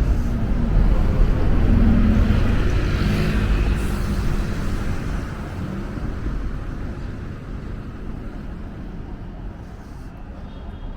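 A motor vehicle passing close by, loudest about one to three seconds in, then fading away into a low traffic rumble.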